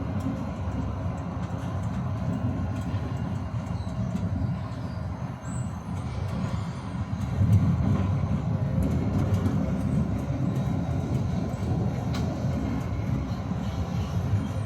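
Tram running along its rails, heard from inside the car: a steady low rumble that grows louder about halfway through.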